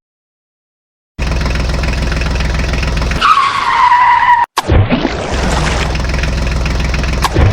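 About a second of silence, then a vehicle engine running steadily. In the middle a high squeal slides down in pitch for about a second, followed by a brief cut and a short low rumble before the engine runs on.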